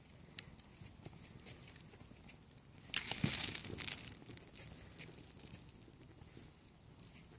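Bonfire crackling faintly with scattered small pops, and a louder burst of crackling and rustling about three seconds in that lasts about a second.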